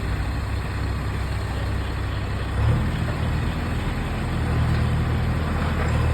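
A heavy vehicle engine running with a steady low hum. About three seconds in it picks up, getting louder and a little higher.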